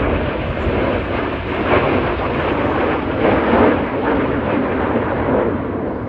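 Jet noise from the Red Arrows' BAE Hawk T1 jets, their Adour turbofans making a loud, steady rush with a deep rumble that swells and eases as the formation passes.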